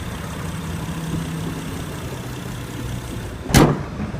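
A 2014 Honda Accord's V6 engine idling with a steady low hum. About three and a half seconds in, a single loud slam of a car body panel shutting.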